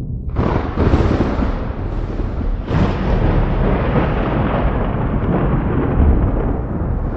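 Thunder: a sudden sharp crack about a third of a second in, a second crack near three seconds, then a long rolling rumble that slowly fades.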